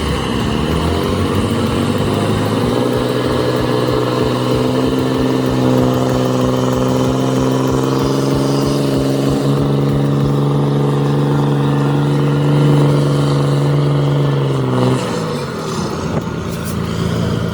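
Heavy truck's diesel engine revving up over the first couple of seconds and held at steady high revs under load, then dropping back about fifteen seconds in.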